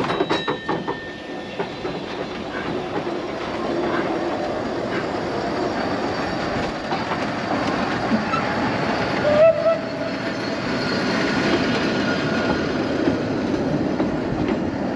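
Isle of Man Railway narrow-gauge steam train's carriages rolling past on the track, wheels clicking over the rail joints, with a brief squeal about nine and a half seconds in.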